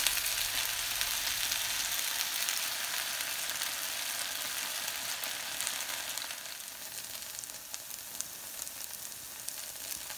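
Batter of courgette flowers sizzling in hot oil in a non-stick frying pan, a steady fizz with many small crackles and pops. It is loudest in the first couple of seconds and dies down somewhat after about six seconds.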